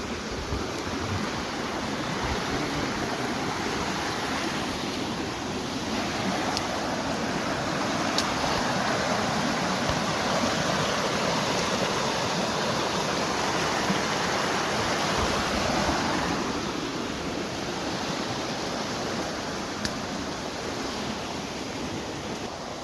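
Steady rain falling in forest, an even hiss that swells louder in the middle, with a few single drops ticking close by.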